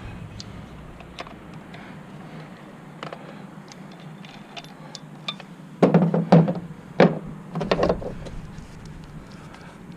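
Faint steady background with scattered small clicks, then a cluster of knocks and thuds about six seconds in and a second, shorter cluster near eight seconds.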